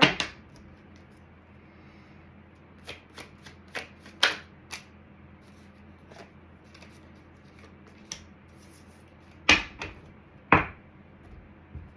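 Tarot cards being shuffled and handled: scattered light card clicks, then two loud sharp snaps near the end.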